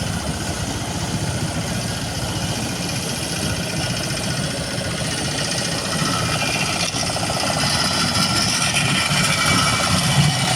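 Motorboat engine running steadily, getting louder about six seconds in.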